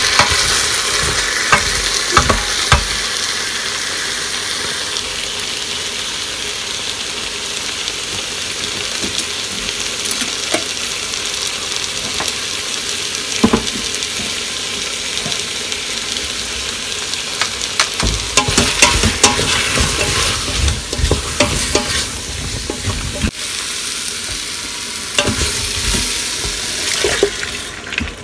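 Tomatoes and chopped vegetables sizzling in an Instant Pot's stainless steel inner pot, with a wooden spatula scraping and knocking against the pot as they are stirred. The stirring clatter gets busier a little past the middle.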